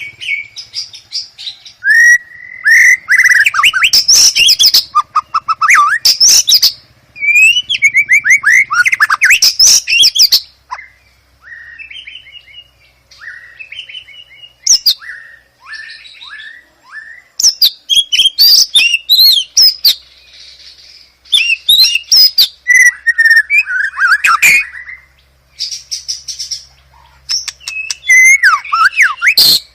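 White-rumped shama singing a loud, varied song: bursts of rapid sliding whistles and trills, broken by a softer run of short falling notes around the middle, over a faint steady low hum.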